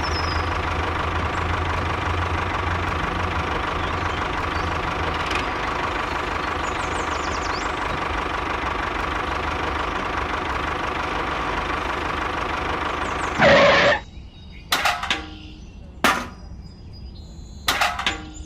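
A motor running steadily, with a low hum and a steady higher tone, that stops abruptly with a loud short burst about 13 seconds in. After it stops come a few scattered sharp knocks.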